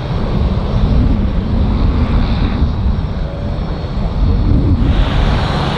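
Fixed-wing aircraft engine noise: a loud, steady rumble. About five seconds in it turns to a brighter hiss over a steady low hum.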